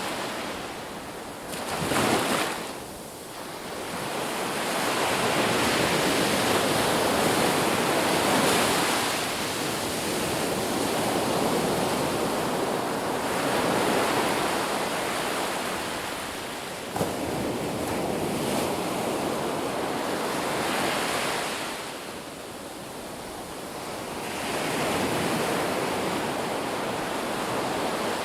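Ocean surf breaking on a beach, washing in and out in slow swells every few seconds, with a sharper wave crash about two seconds in.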